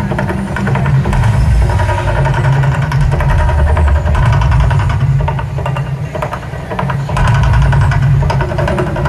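Mirage volcano show erupting: a loud, deep rumble with crackling noise on top. The level dips briefly about six seconds in, then comes back.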